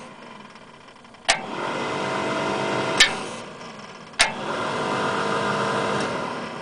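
A new mini starter motor on a 1984 Chevy Silverado small-block is engaged twice, each time with a sharp click, and cranks with a steady whine for about two seconds a time. The second run eases off near the end.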